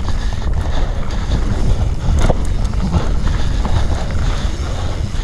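Wind buffeting the microphone during a fast ride over rough trail: a steady low rumble with a few short knocks and rattles.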